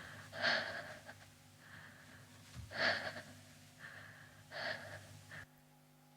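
A person breathing audibly in about five gasping breaths, roughly a second apart, which stop shortly before the end.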